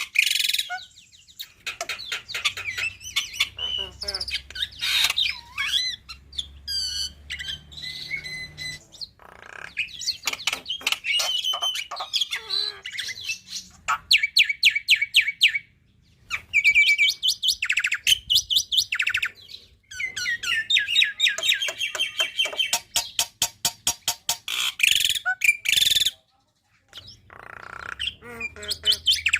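Black-winged myna (jalak putih) singing a long, varied song: fast rattling runs of repeated notes, whistles that glide in pitch, and harsh calls, broken by two short pauses.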